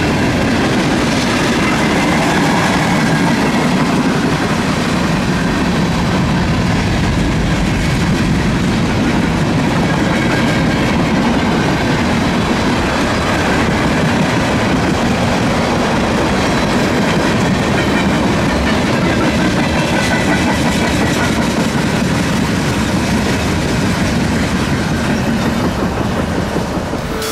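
A long freight train's cars rolling past, steel wheels clacking over rail joints over a steady rumble and rush.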